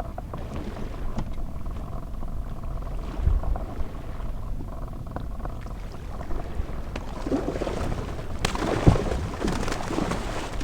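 Small inflatable fishing boat under way on the sea: a steady low rumble and water noise against the hull. In the last couple of seconds there is louder splashing and rushing.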